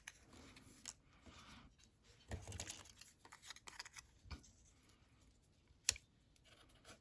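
Faint rustling and light taps of paper pieces being handled and laid on a journal page, with a sharp click about six seconds in.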